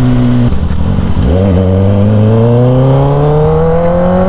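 Kawasaki ZX-10R inline-four through an SC Project exhaust, ridden on the road: the engine note holds steady, dips and breaks up about half a second in, then climbs slowly and evenly as the bike accelerates.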